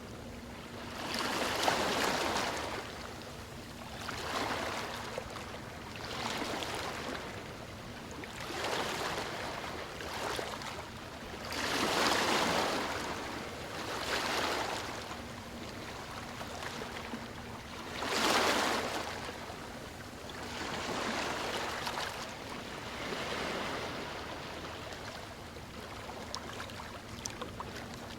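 Gentle ocean waves lapping on a shore, each wash swelling and fading every two to three seconds, with one sharper, louder wash about eighteen seconds in.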